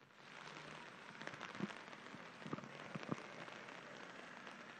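Faint steady rain pattering, with many small drops ticking.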